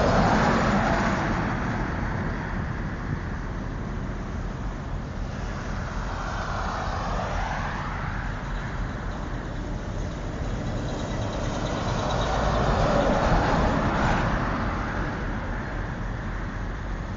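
Interstate highway traffic: three vehicles pass in turn, each rising and fading, with a steady low rumble between them.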